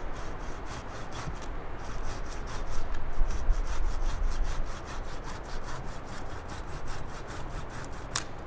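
Wood being sawn by hand with quick, even back-and-forth strokes, about three to four a second, then a sharp click near the end.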